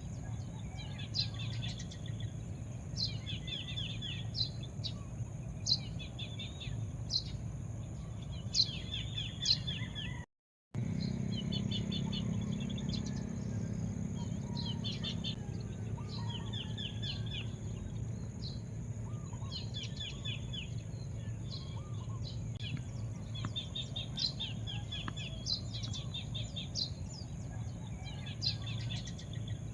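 Birds chirping over and over, each call a sharp high note followed by a quick run of chirps, repeating every second or two over a steady low background rumble. The sound cuts out completely for about half a second around ten seconds in.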